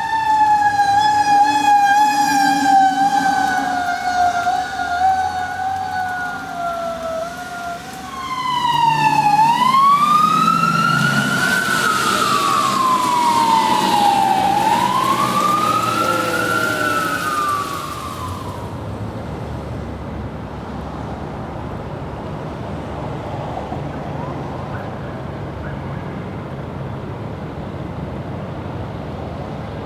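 Emergency vehicle siren, loud: a slowly falling tone for the first several seconds, then a wail that rises and falls twice and stops a little past halfway. A steady vehicle rumble carries on after it.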